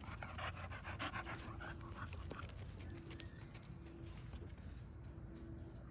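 American bully dog panting quickly for the first two seconds or so. A steady high chirring of insects carries on underneath throughout.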